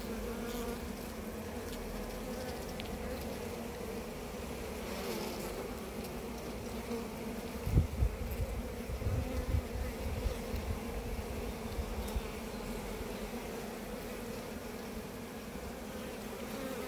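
Steady hum of many honey bees buzzing around an open hive. A few low thumps come about halfway through, the first the loudest.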